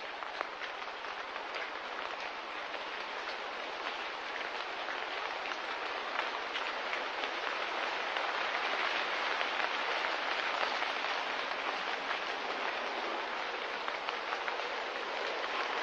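Steady rain: an even hiss of many small drops, slowly growing louder.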